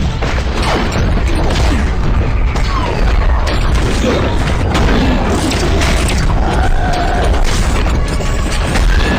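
Loud, unbroken wash of cartoon action sound effects, with deep booming and mechanical clatter under some music.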